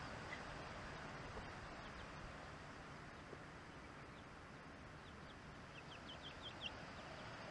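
Faint, steady outdoor hiss, with a quick run of about six short, high, falling chirps from a bird near the end.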